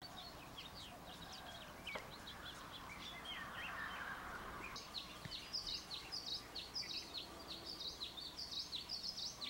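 Outdoor ambience of small birds chirping in quick, short calls, sparse at first and busier and louder from about halfway in. A soft rush of noise sits under the first half.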